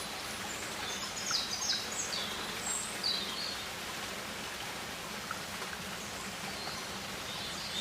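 Nature ambience track of a rainforest: a steady hiss like rain or running water, with a few faint high bird chirps in the first three seconds and again near the end.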